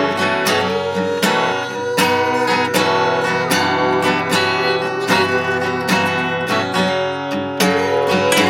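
Instrumental music: strummed guitar with a steady beat of strokes about twice a second, between sung verses of a song.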